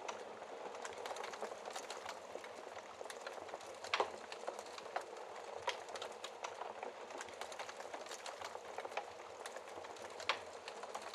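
Wood fire crackling in a fireplace: a steady hiss with frequent irregular pops and snaps, two sharper pops about four and ten seconds in, over a soft bed of rain.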